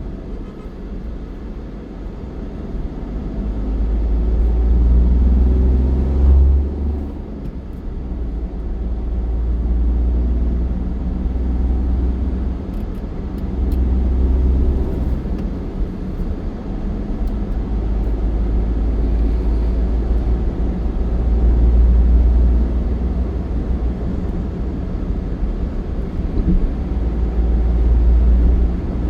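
Low rumble of a moving road vehicle, swelling and easing every few seconds.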